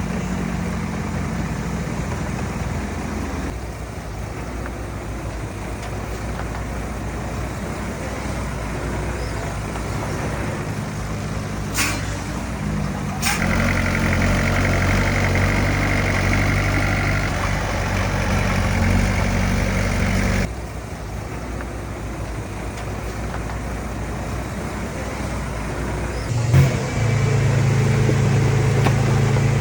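Heavy diesel earthmoving machinery running, a bulldozer and dump trucks, with the engine note changing abruptly several times and a couple of sharp metallic knocks about halfway through.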